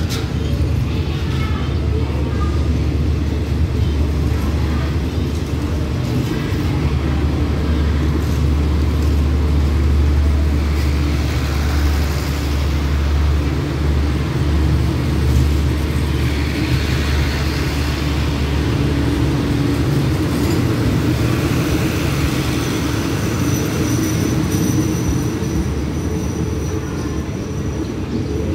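Passenger express train pulling out of the station, its carriages rolling past on the rails with a steady low rumble that eases slightly near the end as the last car draws away.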